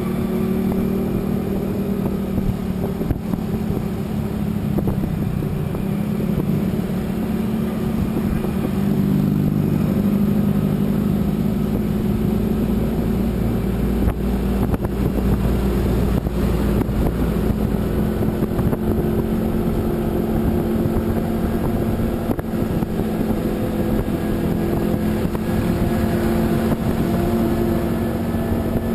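A vehicle engine running steadily under way, its pitch drifting slightly, over constant road and wind rumble.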